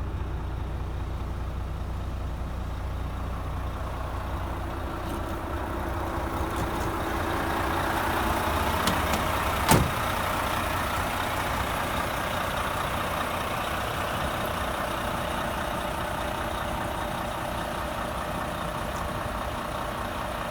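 Renault T460 tractor unit's 460 bhp Euro 6 diesel engine idling steadily. About halfway through, a sharp knock sounds over it.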